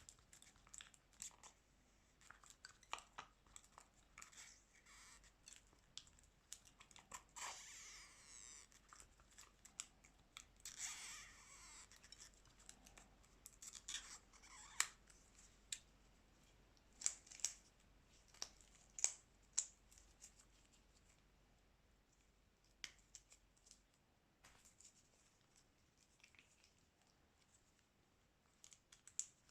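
Small clicks, taps and short scraping or tearing sounds of hand tools working on a Xiaomi Redmi 9A smartphone during a screen replacement, with a few longer scrapes in the first half.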